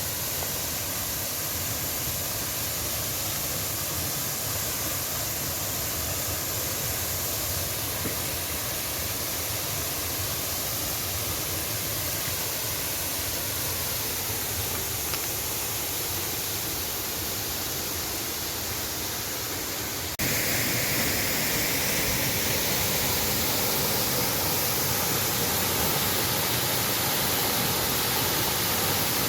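Steady rush of falling water from Bambarakanda waterfall. About twenty seconds in it jumps to a louder, brighter rush.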